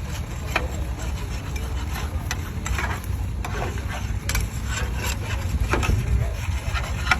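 A tractor running: a steady low rumble with scattered clicks and rattles over it.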